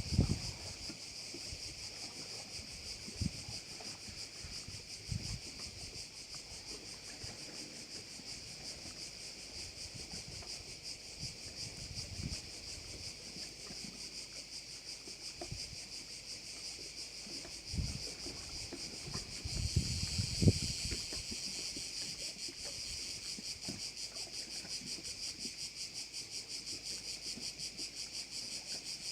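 A chorus of cicadas buzzing in a dense, rapidly pulsing high drone that grows louder about two-thirds of the way in. Occasional short low thuds and rumbles sit underneath it.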